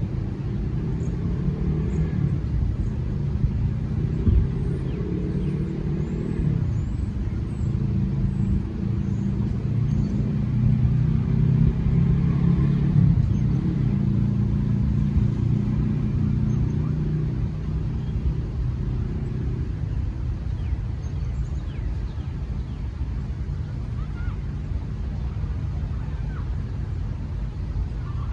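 A motor vehicle's engine running close by, a low pitched hum that shifts pitch a couple of times, grows loudest around the middle and fades out after about twenty seconds over a constant low rumble. Faint bird chirps are heard high above it.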